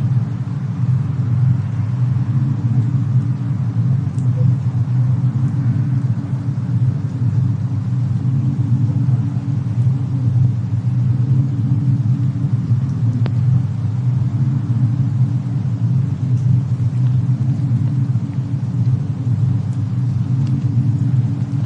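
Fireplace and snowstorm ambience: a steady low rumble with a few faint, sparse crackles, one a little clearer about halfway through.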